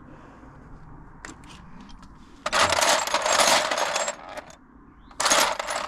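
Metal hand tools (sockets and extension bars) clattering and jingling as they are rummaged through: a long rattle starting about two and a half seconds in, then a shorter one near the end.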